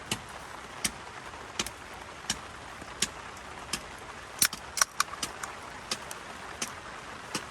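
Steady rain hiss with scattered sharp ticks of drops striking a hard surface, several coming close together near the middle.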